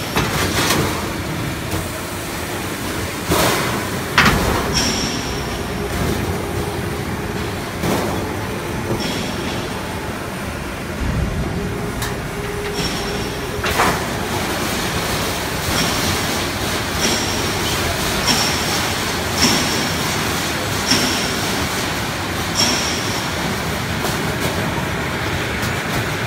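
HVAC duct auto line running: steady machine noise with a few sharp metal knocks. In the second half, short high hisses repeat roughly every second and a half.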